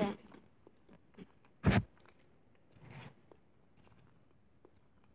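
Quiet chewing of a bite of solid chocolate egg. A single sharp, loud thump comes a little under two seconds in, with a softer knock about a second later.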